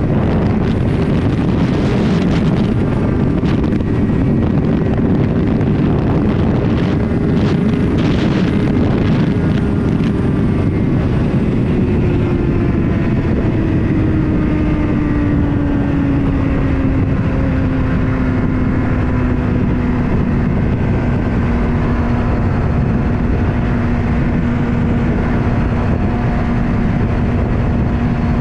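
Motorcycle engine running steadily under way, with wind rushing over the microphone. About ten seconds in the engine note falls gradually over several seconds as the bike slows, then holds at a lower, steady pitch.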